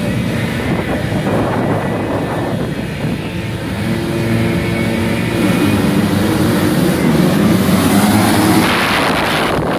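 Several motocross bikes running and revving together, their engine notes rising and falling against each other. The sound swells about eight seconds in, then drops away abruptly at the end.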